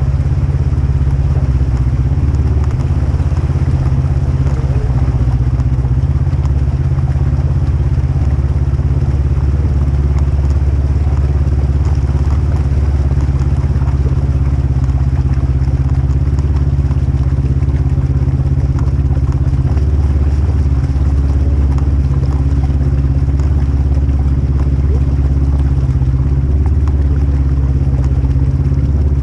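Polaris RZR 1000 side-by-side's engine running steadily under way, a deep drone that holds an even level throughout.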